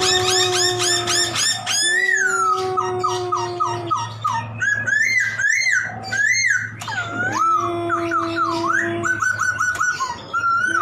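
Laughingthrush (poksay) in full song: a rapid run of repeated chirps, then varied whistled phrases, some sliding up and down, others in quick repeated notes. Beneath the song a steady low drawn-out tone sounds three times, each lasting two to three seconds.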